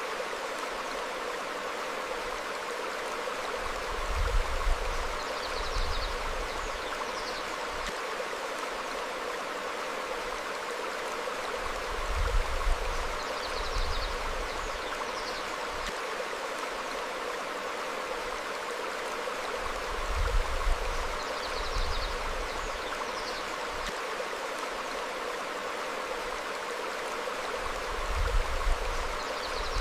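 Forest stream flowing steadily over rocks, with faint short bird chirps. About every eight seconds, a brief low rumble rises under the water sound.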